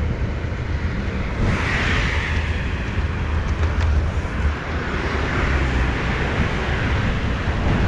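Wind rumbling on the microphone of a moving bicycle, with road traffic noise. A hiss like a passing vehicle swells up about a second and a half in.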